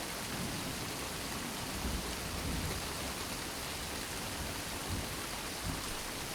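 Steady gentle rain, an even continuous hiss of rainfall with no thunder.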